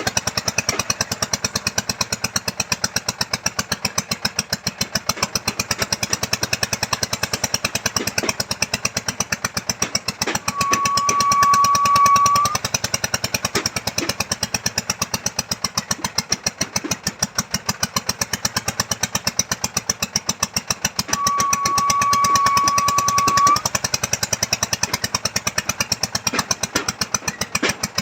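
Small engine of a motorised earth auger drilling a foundation hole, running with a rapid, even beat. Twice, a high steady whine of about two seconds rises over it.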